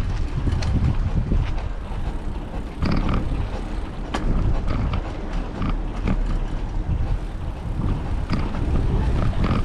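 Wind buffeting a bicycle rider's microphone, a deep, uneven rumble, with a few sharp clicks and rattles from the moving bike.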